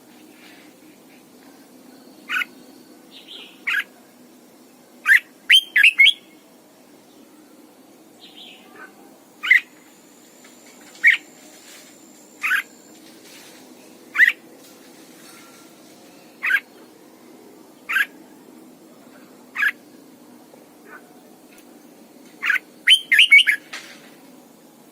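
Red-whiskered bulbul giving short, sharp calls about every second and a half, with quick runs of several notes around five seconds in and again near the end.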